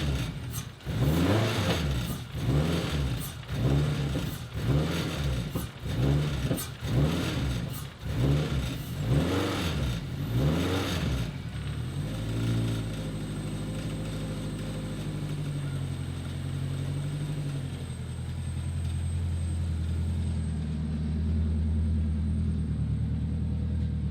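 Race car engine being revved up and dropped back about once a second, then settling to a steadier run with small changes in pitch from about eleven seconds in.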